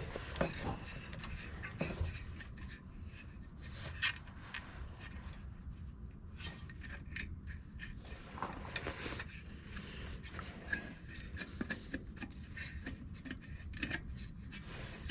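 Scattered small clicks, scrapes and rubbing as a tractor headlight bulb and its retaining clip are worked by hand, with the clip not locking down. The loudest click comes about four seconds in.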